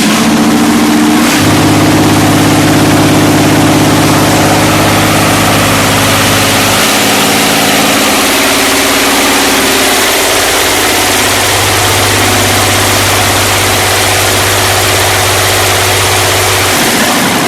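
YaMZ-240 V12 diesel engine running loudly and steadily just after assembly, its note changing three times as the engine speed shifts.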